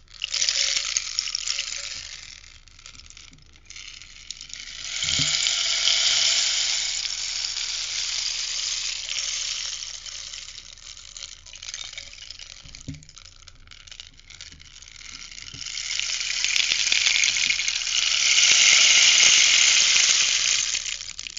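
Rainstick being tipped, its pebbles pouring down through the tube as a rushing patter that swells and fades away: three cascades, near the start, about five seconds in, and a longer one from about sixteen seconds in. A couple of soft knocks come from handling the stick.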